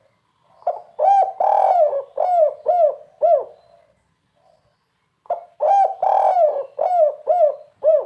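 Spotted dove (tekukur) singing its 'kuk 3' type cooing song: two phrases of about six coos each, a few seconds apart, each coo a short falling note.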